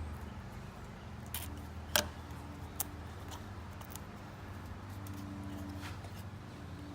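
A few sharp clicks and taps, the loudest about two seconds in, over a steady low hum.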